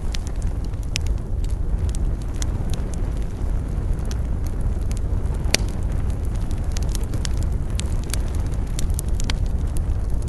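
Campfire burning and crackling, with irregular sharp pops and one louder pop about five and a half seconds in, over a steady low rumble.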